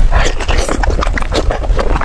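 Close-miked wet chewing and crunching of chicken heads: dense, irregular smacks and crackles.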